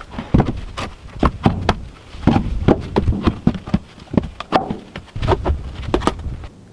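Irregular knocks and clunks of timber being handled and worked, two or three a second.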